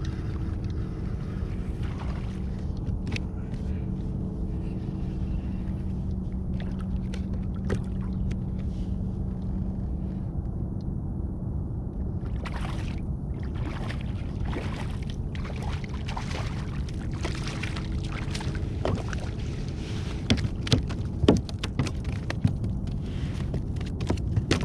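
A boat motor drones steadily under a low wind rumble. From about halfway in there are scattered short clicks and splashes of water.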